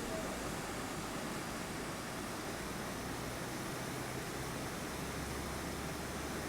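Flash floodwater rushing across a road: a steady, even roar of moving water with no breaks, over a faint low hum.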